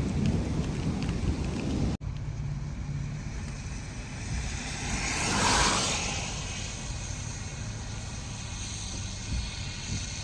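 Heavy rain and road noise in a vehicle driving through a storm, with scattered drop clicks. About two seconds in the sound cuts abruptly to steadier wind and road noise, and near the middle one whoosh swells and fades.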